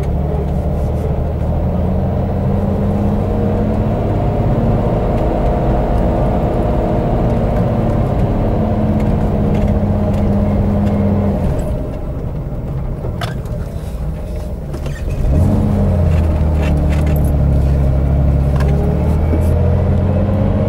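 1965 Corvair 500's air-cooled flat-six engine pulling away and running under way with dual exhaust, revs climbing slowly. About 12 seconds in it drops back for a few seconds, then picks up again and pulls louder.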